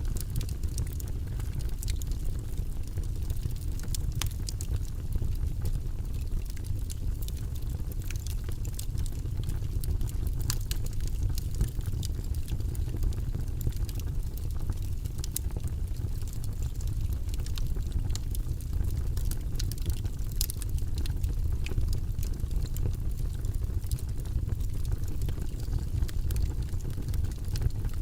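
Wood fire burning in a fireplace: a steady low rumble of flames with frequent irregular sharp crackles and pops from the logs.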